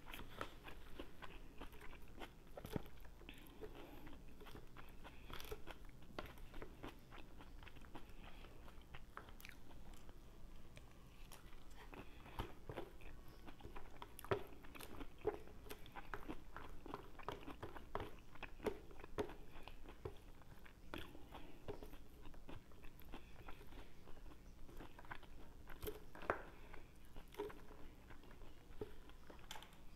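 Chewing and crunching of salad, picked up close by a clip-on microphone: irregular small crunches and clicks, with light taps of a wooden fork in a plastic bowl.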